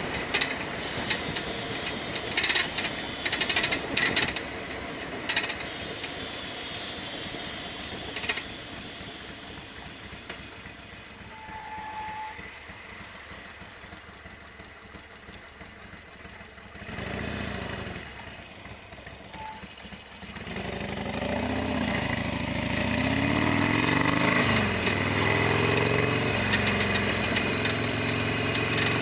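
Harley-Davidson Sportster XL1200 rolling with scattered sharp knocks and clatter, the noise at bumps that the owner thinks is something on the bike striking. About two-thirds of the way through, its V-twin engine comes in and runs with the revs rising and falling.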